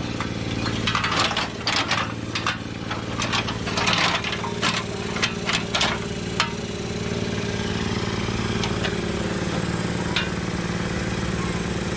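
Steady engine-like hum with a run of metal clanks and knocks in the first six or so seconds, typical of a frame-pulling chain and its hooks being handled and repositioned. After that only the hum remains.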